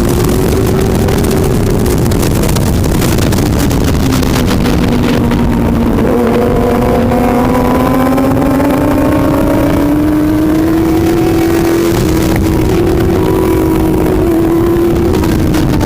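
Superbike engine running at speed over a loud rush of noise. Its pitch dips a few seconds in, climbs slowly for several seconds, then holds.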